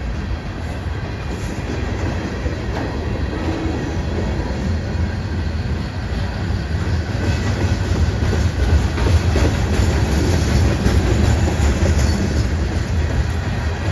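Train rolling past, a continuous heavy rumble that grows louder about halfway through.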